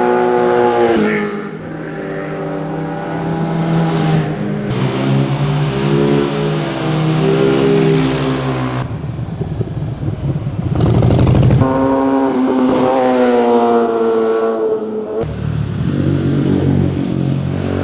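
Motorcycles riding past one after another, their engines revving and the exhaust note rising and falling as they accelerate and change gear.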